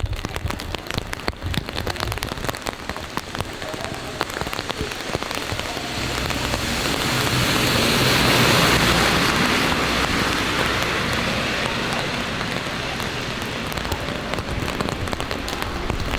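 Rain falling and dripping onto hard surfaces, with many small drop ticks. A rushing water noise swells to a peak about halfway through, then slowly fades.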